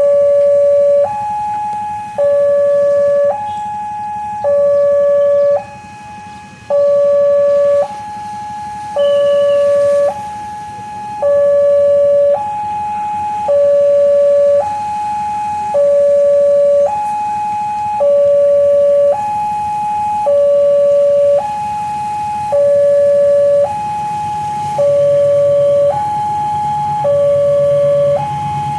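Railway level-crossing warning alarm sounding a slow alternating two-tone, low then high, about once every two seconds, signalling an approaching train. Near the end the low rumble of the oncoming train rises beneath it.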